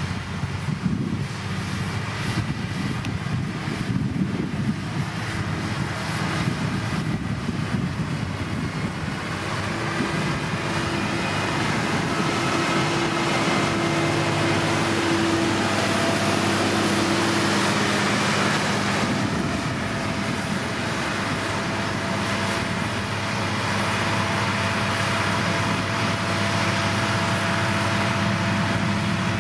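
Heavy diesel road-construction machinery, a motor grader or road roller, running steadily under load. It gets somewhat louder about a third of the way in, where a steady humming tone joins it.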